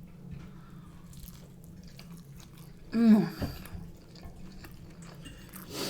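Chewing of fish and chips, with faint small mouth clicks, and a short voiced hum with a gliding pitch about halfway through. A steady low hum runs underneath.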